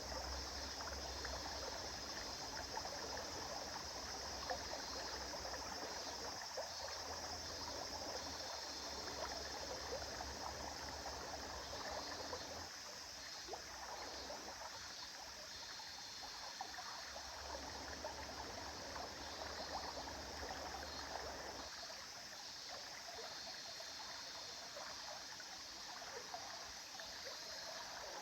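A river flowing steadily, a continuous rushing with trickling water, and a low rumble underneath that comes and goes.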